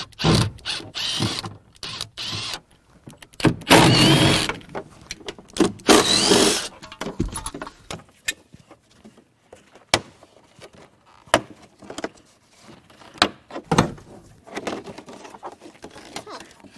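Plastic interior trim panels being pried and pulled out of a car, scraping and creaking with a squeaky rub, then a run of scattered sharp clicks and knocks as the clipped trim is worked free.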